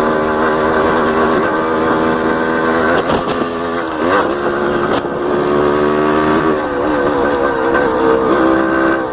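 Yamaha DT 180's two-stroke single-cylinder engine running as the bike is ridden. The engine note drops and climbs again about three to four seconds in, and shifts once more around seven seconds in.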